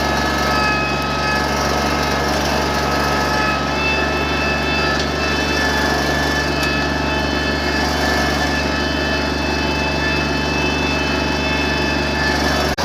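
Small tractor engine running steadily under load while towing logs on a chain, its pitch holding even, with a brief break in the sound near the end.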